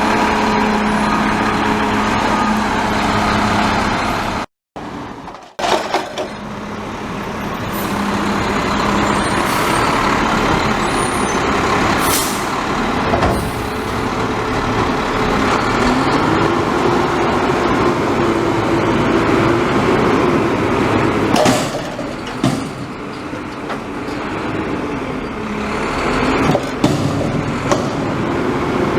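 Front-loader garbage truck's diesel engine running, its pitch rising and falling a few times. A short hiss of air comes twice.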